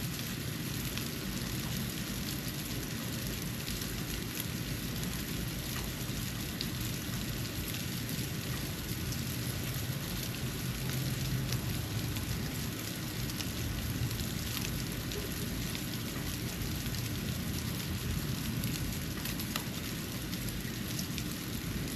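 Snow falling, heard as a steady soft hiss flecked with tiny scattered ticks, over a low steady hum.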